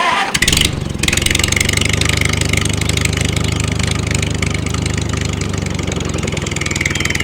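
A small motor running steadily with a rapid, even pulse, after a short burst of noise just under a second in.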